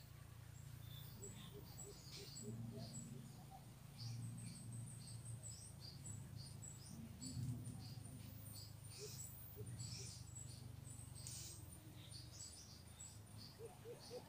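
Faint forest birdsong: short high chirps repeated throughout. Near the end comes a quick run of low, evenly spaced notes.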